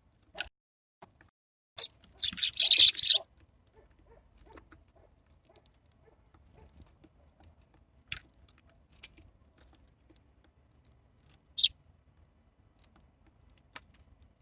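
Small birds at a feeder: a brief run of rapid, sharp, high-pitched clicks about two seconds in, another short one near the end, and scattered faint clicks in between.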